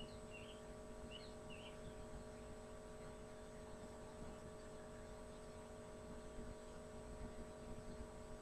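Faint steady electrical hum with several constant tones over low room noise, with a few faint high chirps in the first couple of seconds.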